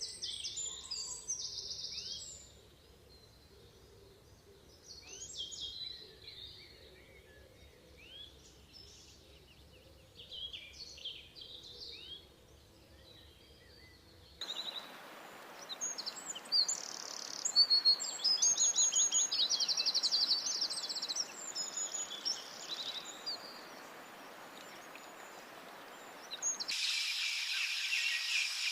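Wild birds calling and chirping, short varied calls over a faint low rumble. About halfway through the scene cuts abruptly to louder bird song and rapid trills over a steady hiss. Near the end it cuts again to a dense, steady high-pitched chorus.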